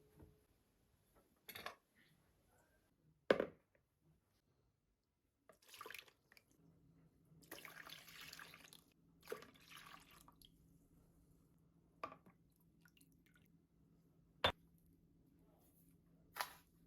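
Kitchen work sounds: scattered sharp knocks and clinks of dishes and utensils, with a short rustling stretch near the middle. A faint steady low hum starts about six and a half seconds in.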